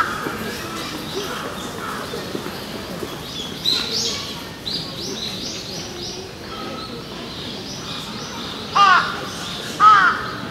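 Birds calling: a quick series of short high chirps around the middle, then two louder calls about a second apart near the end.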